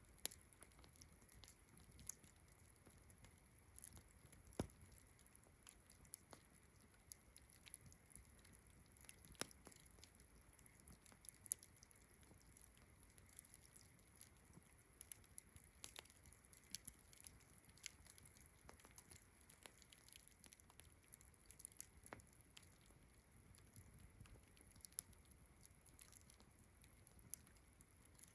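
Faint campfire crackling: irregular sharp pops and snaps from burning wood, a few louder than the rest, over a steady high chirring of crickets.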